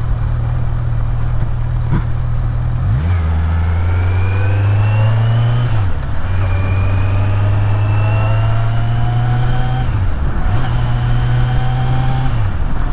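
Kawasaki Z900's inline-four engine accelerating through the gears: the pitch climbs steadily and drops sharply at each upshift, four times.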